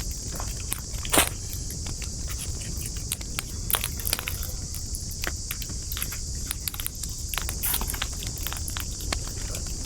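Wood campfire crackling, with irregular sharp pops and snaps, the loudest about a second in, over a steady high hiss and a low rumble.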